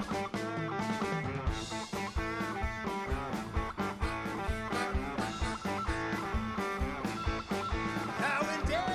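Live blues band playing a guitar-led intro over a steady beat.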